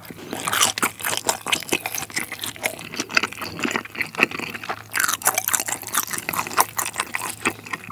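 Close-miked chewing of a mouthful of seafood jjapaghetti, black-bean-sauce instant noodles with octopus and shrimp: a dense run of wet mouth clicks and smacks.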